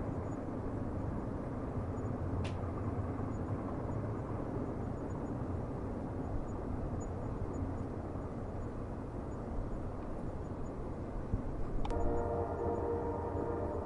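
Steady low rumble of a train running on the rails, with a single click a couple of seconds in. Near the end, another click and then a train horn starts sounding.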